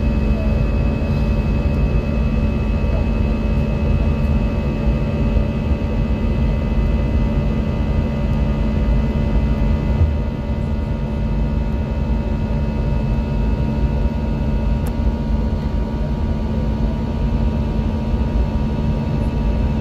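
Cabin noise of an Airbus A320 climbing after take-off: a steady low rumble of engines and airflow with a constant hum over it.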